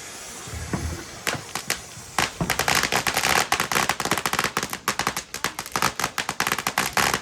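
Consumer fireworks going off: a low thump under a second in, then a few sharp pops building into a dense, rapid run of crackling bangs from about two seconds in, like a string of firecrackers.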